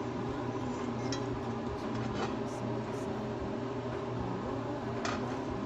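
A steady mechanical hum, such as a fan or appliance motor, with a few light clicks about a second in, two seconds in and near the end.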